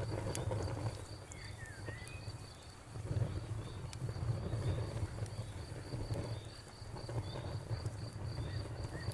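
Wood fire crackling with a low rumble and scattered sharp pops, under a cricket chirping in a steady, even rhythm. A bird gives a few short chirps about a second and a half in.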